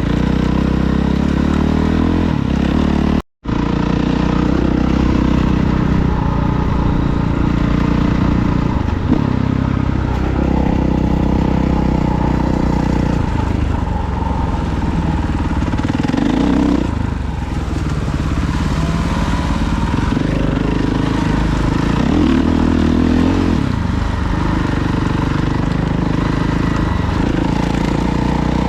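Off-road vehicle engine running under way, its pitch rising and falling with the throttle. The sound drops out for an instant about three seconds in.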